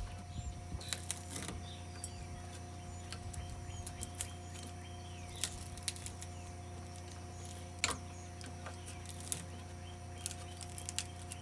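Scattered light clicks and clinks, a few at a time at irregular intervals, from scrap metal parts of a dismantled ceiling fan being handled, over a steady low hum.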